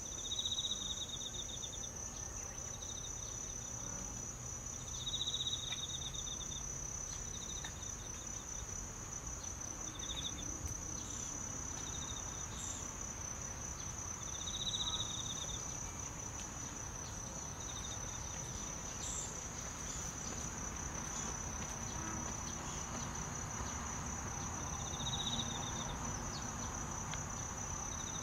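Insects trilling: one gives an unbroken, high, steady trill, while another breaks in about five times with a lower, pulsed trill about a second long.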